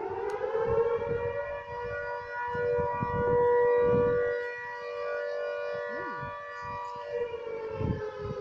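Civil defense siren winding up, holding a steady wail, then starting to wind down about seven seconds in, with an irregular low rumble beneath it.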